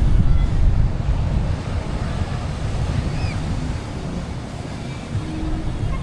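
Wind rushing over the microphone during a tandem paraglider flight, a steady buffeting noise strongest in the low end.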